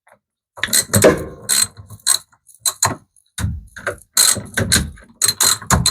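Socket ratchet wrench with a 10 mm socket clicking in short irregular runs as a bolt on a washing machine is turned and tightened.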